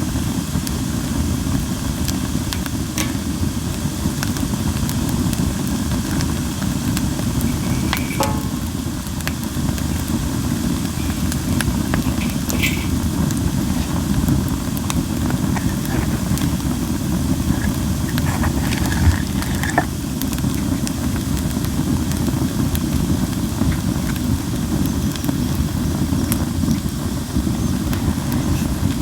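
Japanese linden wood burning in a fire pit: a steady low roar of the flames with scattered sharp pops and crackles, and a few short hisses of sap and moisture steaming out of the wood.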